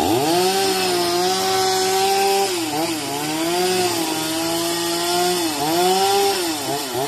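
Chainsaw running at high revs, its pitch dropping and recovering about four times as the engine is loaded and eased off.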